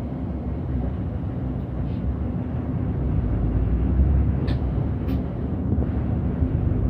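City bus driving, heard from inside: a steady low engine and road rumble that grows a little louder partway through, with two short ticks about four and a half and five seconds in.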